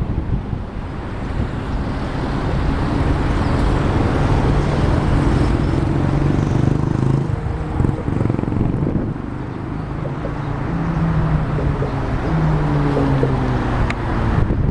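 Wind buffeting the microphone over road traffic, with engine hum from passing vehicles swelling and fading a few times.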